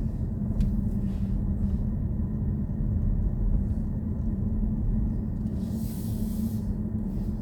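Road and tyre rumble of a BMW i4 M50 electric car on the move, heard inside the cabin as a steady low drone with no engine note. About six seconds in there is a brief hiss.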